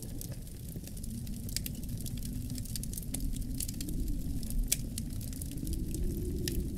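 Wood fire crackling in a fireplace, with irregular sharp pops and snaps, over a low, steady rumble of wind that swells a little now and then.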